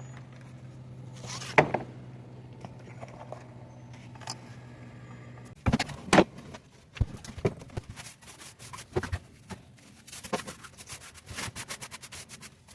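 Hand sanding of a fiberglass boat surface: scattered scraping strokes from about halfway, quickening into rapid back-and-forth rubbing strokes near the end. A low steady hum fades out in the first half.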